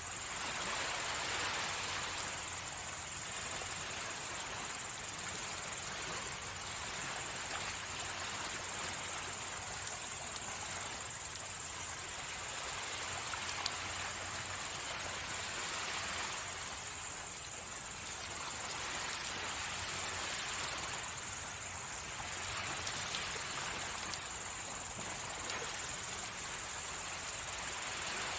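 Gentle sea waves washing on the shore, the wash swelling and easing every few seconds, with a steady high hiss. A few faint crackles from a campfire are heard now and then.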